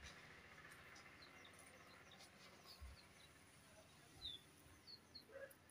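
Faint bird chirps: a handful of short, high notes scattered over a near-quiet background.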